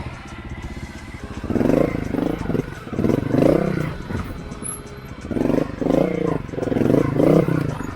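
Montesa Honda Cota 260RT trials motorcycle's four-stroke single-cylinder engine running, then revved hard in two spells of about two seconds each, starting about one and a half seconds in and again past halfway, as the bike is wheelied over obstacles.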